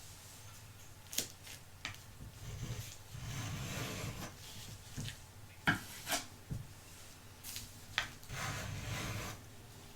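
Scratchy rubbing strokes against small plastic Pez dispensers, typical of paintbrush work, in two longer stretches with several sharp clicks and taps between them.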